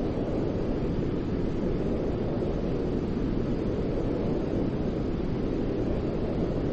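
Continuous white noise for baby sleep: an even, deep rushing hiss, heavier in the low end, that holds steady without any change.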